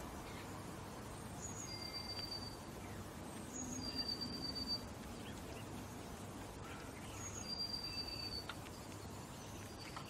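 Birds calling: three thin, high whistled notes, each held for just under a second, with a few shorter, higher chips between them, over a steady low rumble of outdoor background noise.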